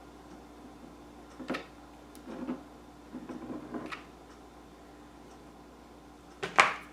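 Light clicks, taps and rustles of craft pieces being handled and set down during hand crafting, with one sharp knock near the end, the loudest sound.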